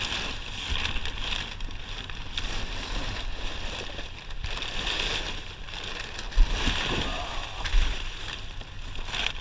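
Scrap being shifted and rummaged through inside a dumpster: steady rustling and scraping with wind rumble on the microphone, and two sharp knocks about six and a half and eight seconds in.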